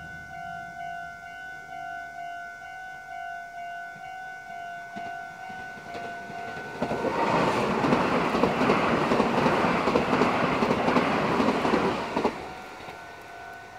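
A level-crossing warning bell rings in steady, evenly repeated pulses. About seven seconds in, a Meitetsu electric train passes close by for about five seconds, and the loud rush of its wheels on the rails covers the bell. The bell is faintly heard again once the train has gone.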